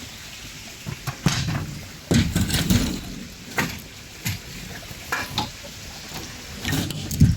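Irregular knocks, thuds and clatter of boards and tools being handled during hand repair work, with the loudest thumps about two seconds in and near the end.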